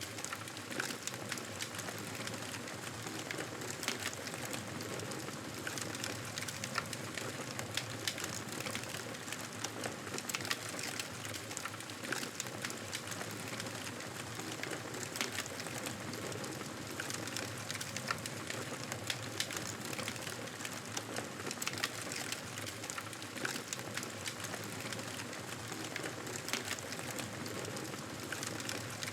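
Wood fire crackling in a fireplace: a steady rushing hiss with frequent small pops and crackles.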